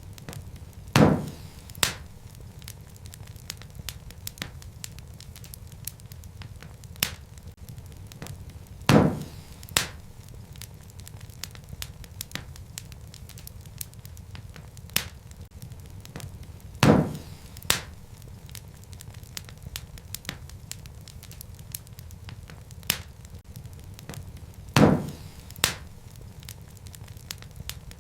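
Wood fire burning in a fireplace: a steady low rumble of flames with constant small crackles and snaps, and a louder pop about every eight seconds, each followed by a smaller one.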